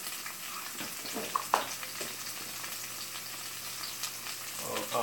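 Diced potatoes frying in hot oil in a skillet: a steady sizzle, with a few sharp clicks about a second and a half in.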